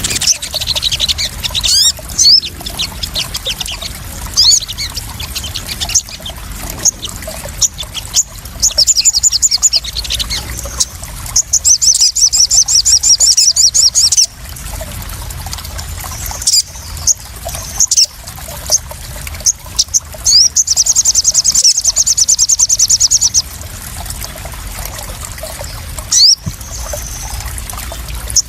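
Crimson sunbird (sogon) singing high, rapid chirping trills in bursts, two of them long, about 12 and 21 seconds in, over a steady trickle of splashing water.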